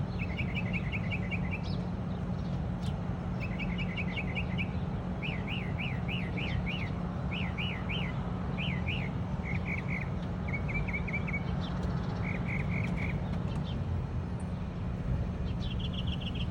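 A songbird singing a run of quick repeated chirps, switching to a new repeated phrase every second or two, over a steady low background rumble.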